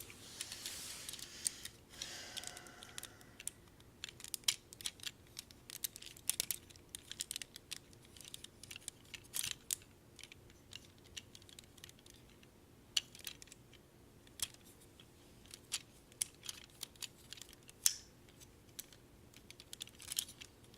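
Hard plastic parts of a Transformers Generations Sandstorm action figure clicking and snapping irregularly as its joints and panels are twisted and folded during transformation, with a brief rubbing scrape in the first few seconds.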